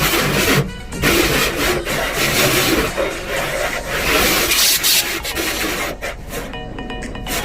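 Loud, rough rubbing and scraping noise with irregular knocks. It gives way near the end to background music with steady tones.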